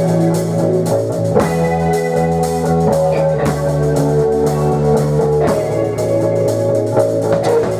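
Rock band playing live: strummed guitar chords over a drum kit, the chord changing about every four seconds.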